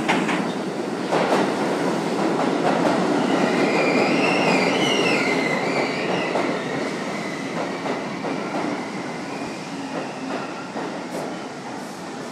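Ride inside a New York City R62A subway car in motion: steady rumble with wheels clacking over rail joints. A wavering high-pitched wheel squeal runs for a few seconds in the middle, and the noise eases slightly near the end.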